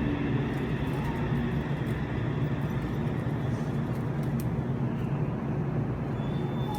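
Yokohama Municipal Subway Blue Line train running between stations: a steady, low rumble of wheels and running gear on the rails.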